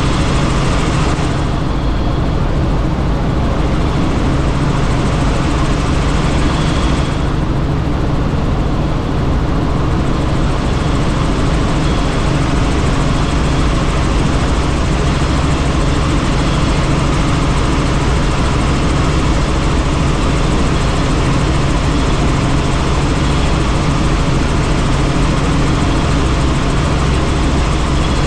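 Helicopter in flight, its rotor and engine running steadily with a loud rush of air, the hiss in the upper range dipping briefly twice in the first ten seconds.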